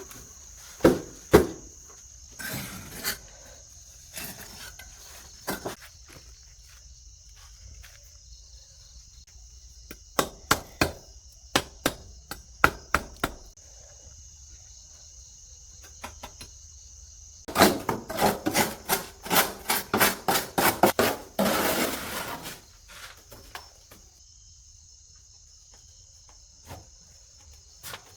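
Sharp knocks or taps on a hard surface: a few scattered ones, then a quick run of a dozen or more, about three a second, lasting some five seconds past the middle. Under them is a steady high drone of insects chirring.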